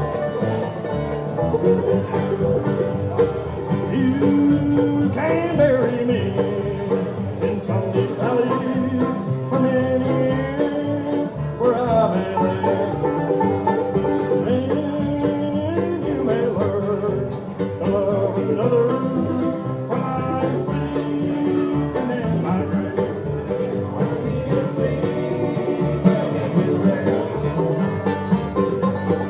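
Live bluegrass band playing, banjo and guitar to the fore, with melodic lines sliding in pitch over the picking.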